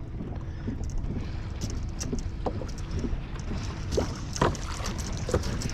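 Water splashing and slapping irregularly against the hull of a moving kayak, over a steady low rumble of wind on the microphone.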